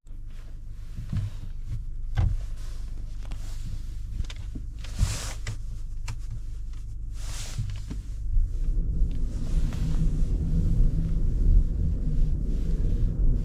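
The Tank 300's 2.0-litre turbocharged inline-four idling with a low, steady hum that grows louder about eight seconds in. A few short hissy noises come over it.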